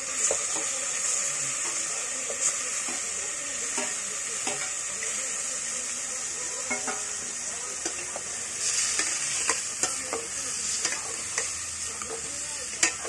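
Raw chicken livers sizzling as they fry in hot oil with chicken hearts, onion and garlic in a pot, a steady high hiss, while a spatula stirs them with scattered scrapes and clicks against the pot and one sharp knock near the end.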